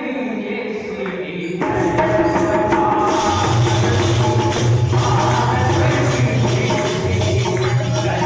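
Jain aarti devotional music: a sung note trails off, then the band comes in about a second and a half in with percussion, and a heavy bass beat joins about three seconds in.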